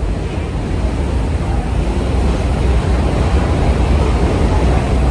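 R1-9 subway train running on the track, a loud steady rumble that grows slightly louder.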